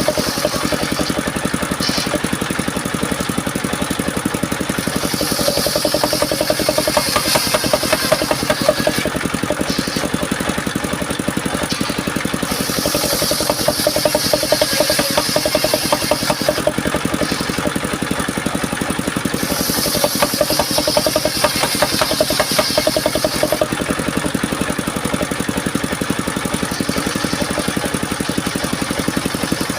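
Engine of a homemade circular-saw sawmill running steadily with a fast knocking beat, while a high hiss from the blade cutting mahogany comes and goes in several stretches of a few seconds each.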